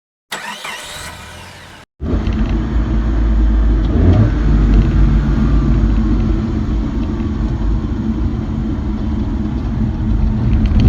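A short sweeping sound, then about two seconds in a loud, steady vehicle-like rumble starts abruptly and runs on.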